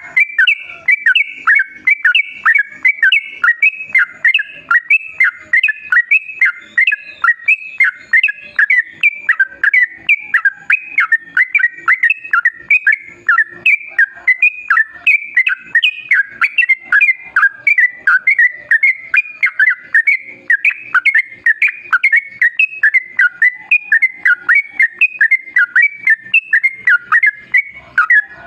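Yellow-vented bulbul (trucukan) song: a long, unbroken string of quick, bubbling whistled notes, several a second.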